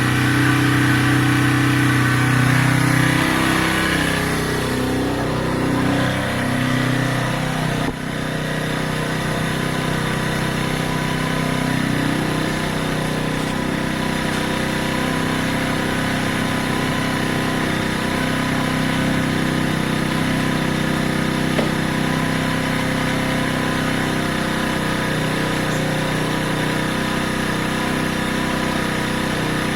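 Keeway 125cc motorcycle engine running. Its pitch wavers and drops between about three and eight seconds in, then holds steady.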